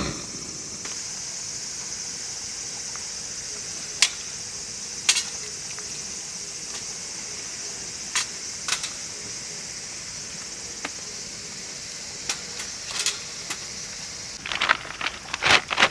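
Steady high-pitched chorus of crickets or other night insects, with scattered sharp clicks and taps and a quick run of them near the end.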